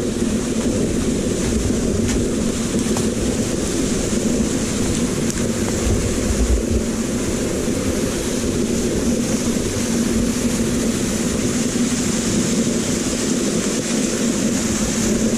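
Steady rushing of a waterfall close to the microphone, with a brief low rumble of wind on the microphone about six seconds in.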